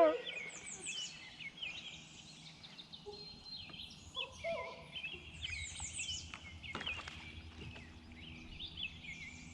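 Several songbirds singing and calling at once: overlapping high chirps, trills and quick sweeping notes, with a single light knock about two-thirds of the way through.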